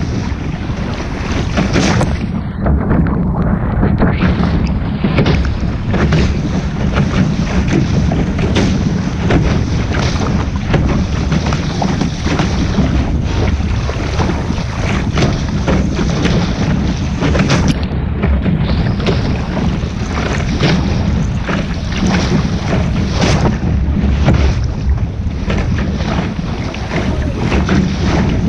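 Wind buffeting the microphone on a sailing boat, with water rushing and splashing against the hull: a loud, steady rush of noise throughout.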